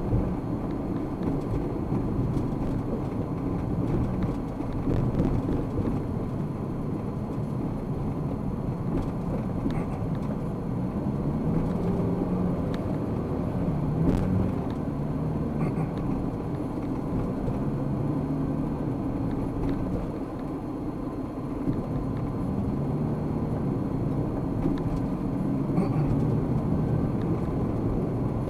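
A car driving in city traffic, heard from inside the cabin: steady engine and tyre rumble, with the engine note rising and falling several times in the second half.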